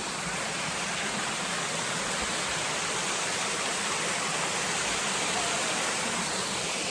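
Small waterfall by the old mill ruins, water pouring and splashing in a steady rush.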